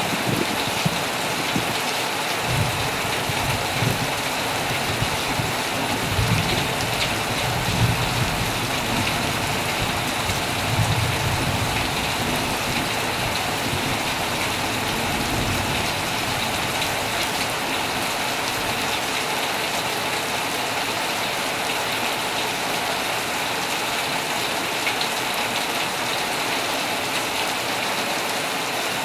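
Heavy rain falling steadily, with a low rumble of thunder through the first half that dies away around the middle.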